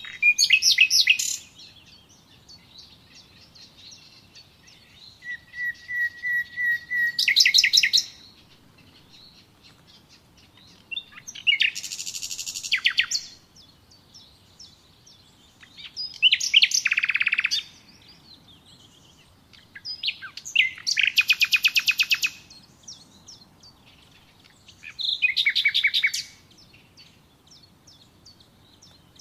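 Songbird singing: about six short, rapid trilled song phrases, high-pitched and repeated roughly every four to five seconds with quiet pauses between, one of them opening on a held whistle.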